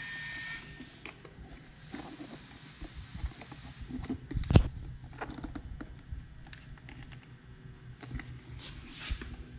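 Handling noise: a steady hiss that stops under a second in, then scattered light clicks and rustles, with one sharp knock about four and a half seconds in.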